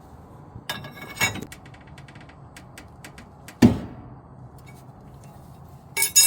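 Sharp metallic pops and clinks from a 1999 Ford F-250's front leaf spring and the bar prying on it: two about a second in, a loud one partway through and a quick cluster near the end. The popping is the lower leaf, under the main leaf, shifting because it is not attached at that end.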